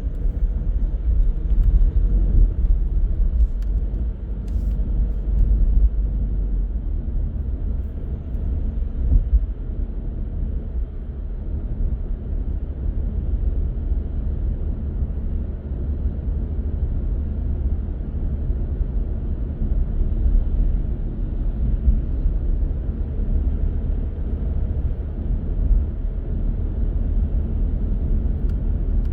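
A car driving along city roads: a steady low rumble of road and engine noise.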